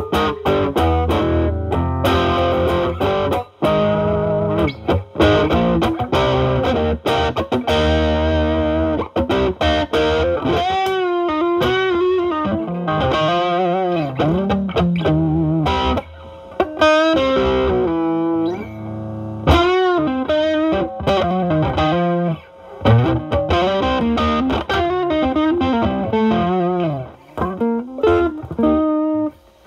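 Stratocaster electric guitar through a Ceriatone Centura Klon-clone overdrive into a Marshall Valvestate amp's drive channel. The pedal's gain is at 10 and the guitar's volume is rolled back to clean up the overdrive. Strummed chords for the first several seconds give way to single-note lead lines with string bends and vibrato.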